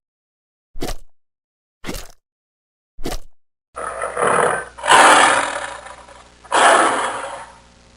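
An animal's short calls repeating about once a second. Then, from about four seconds in, they give way to loud, harsh, drawn-out calls of about a second each, several in a row.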